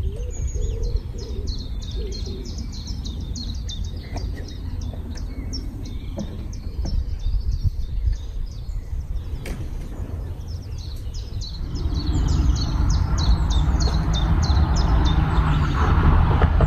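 A small songbird singing long runs of quick, high, repeated chirps with a short break in the middle, over a steady low rumble. About two-thirds of the way through, a broad rushing noise swells up.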